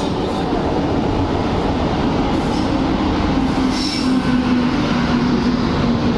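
Electric locomotive running past close by at speed: a loud, steady rush of wheels on rails, with a hum that drops slightly in pitch in the second half as it goes by.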